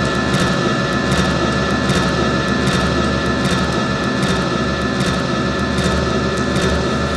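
Amplified drawing gestures fed through a mixing desk's internal feedback loop and effects pedals, making a dense, steady noise drone with a deep hum and several held high tones. Irregular scratchy crackles run over it.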